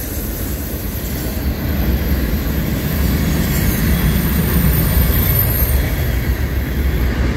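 Freight cars of a manifest train rolling past on the rails: a steady, loud rumble of steel wheels on track, with a thin, high steady squeal above it.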